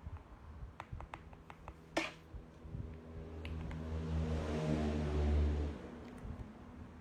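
Mechanical keyboard keystrokes clicking, with one louder clack about two seconds in. A vehicle engine then swells for about three seconds and cuts off suddenly near the end.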